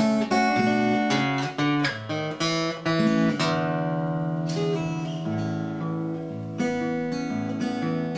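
Background music: acoustic guitar playing plucked notes and chords, the notes ringing longer from about halfway through.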